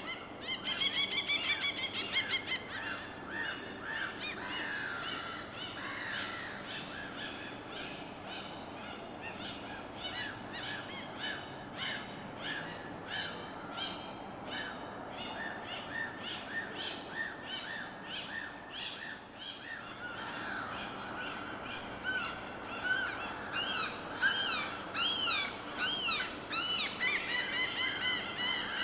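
Several birds calling and chirping over a soft, steady wash of water. A loud ringing call comes about a second in, rapid chirping runs through the middle, and near the end come loud rising calls repeated several times.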